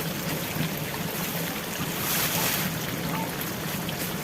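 Steady rushing water noise with scattered faint clicks, the hiss swelling briefly about two seconds in.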